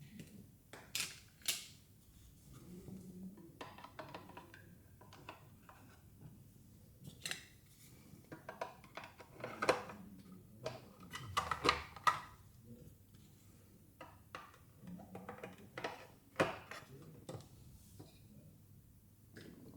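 Hands handling small plastic Mini Brands toy pieces: scattered light clicks, taps and crinkles, with busier clusters around the middle and a few seconds before the end.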